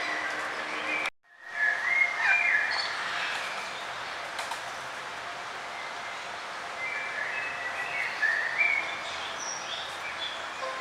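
Small birds chirping and calling over a steady background hiss, with a brief dropout to silence about a second in.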